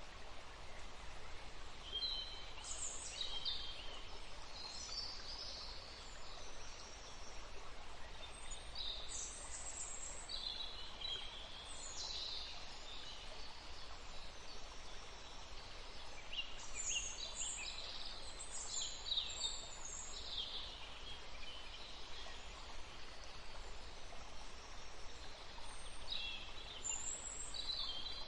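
Birds chirping: scattered bursts of short, high chirps and twitters, busiest around the middle and toward the end, over a steady background hiss.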